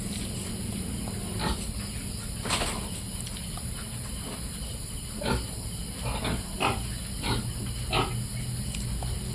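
Piglets making short grunts and squeals, single calls spread through, most of them bunched between about five and eight seconds in, over a steady low hum.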